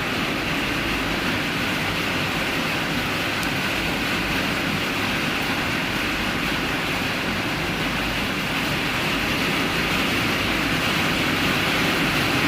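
Heavy rain pouring down, a steady dense hiss that grows a little louder near the end.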